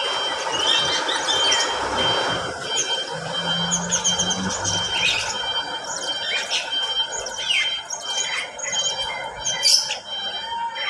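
Mixed flock of aviary birds, lovebirds among them, chattering and squawking without pause, with many short, shrill squeaks and sharp calls overlapping; one loud call stands out near the end.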